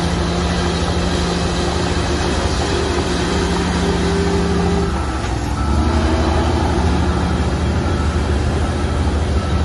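Heavy diesel engine of earthmoving machinery running steadily. About five seconds in its note breaks off, then returns louder and deeper, as under heavier load.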